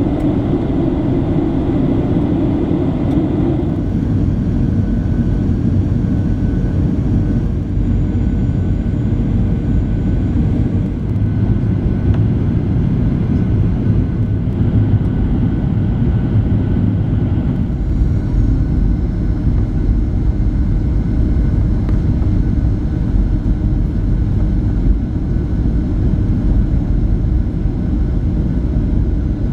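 Steady in-flight cabin noise inside a Boeing 737-700: a deep rush of airflow and engine noise with a few faint steady whines above it. The deepest rumble grows a little stronger a little over halfway through.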